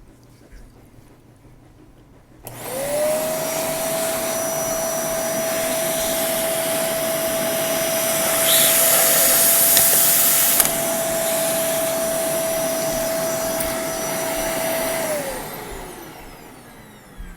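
Vacuum cleaner switched on at low speed, sucking through a plastic bottle to pull the dent out of a woofer's dust cap: it starts up a few seconds in, runs steadily with a motor whine, the air rush grows louder for about two seconds midway and ends in a sharp click, then the motor switches off and winds down near the end.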